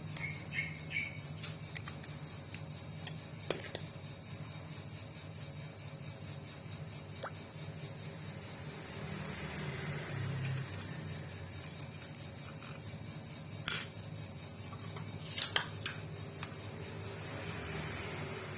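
Metal tools and sewing-machine parts clinking and tapping as they are handled during repair work, in a few scattered sharp clinks, the loudest about fourteen seconds in and a quick pair shortly after, over a steady low hum.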